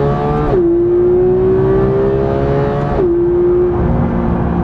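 Porsche 991 GT3's 3.8-litre flat-six accelerating hard, heard from inside the cabin: the engine note climbs, drops sharply on an upshift about half a second in, climbs again and drops on a second upshift about three seconds in.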